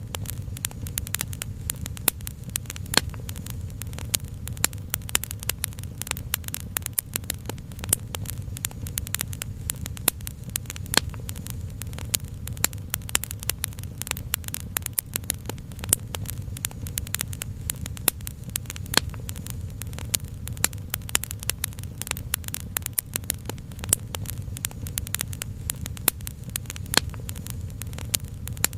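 Crackling fire: frequent small snaps and pops at irregular intervals over a steady low rumble.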